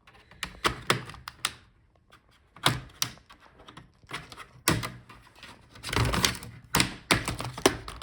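Plastic snap clips of an Acer Nitro 16 laptop's bottom cover clicking loose one after another as a plastic pry tool works around the edge, with a few duller knocks among them.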